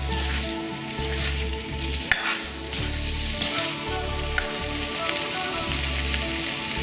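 Potato chunks frying in oil in a wok, sizzling steadily while they are stirred with a wooden spatula, which clicks and scrapes against the pan now and then.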